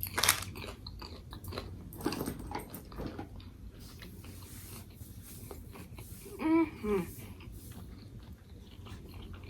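Close-miked bite into a crusty banh mi baguette, with a sharp crunch right at the start, then chewing with small crackles of bread crust. A short hummed sound comes a little past the middle.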